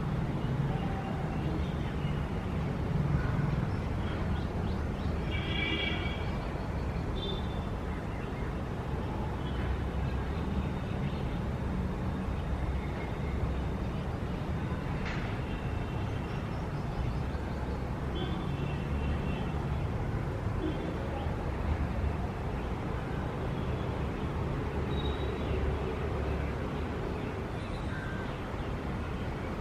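Outdoor street ambience: a steady low rumble of traffic with scattered short high calls over it and a single sharp click about halfway through.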